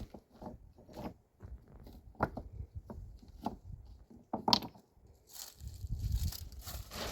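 Irregular small knocks, scrapes and rustles of handling, the loudest about four and a half seconds in, then a denser rushing noise with a low rumble from about five and a half seconds in.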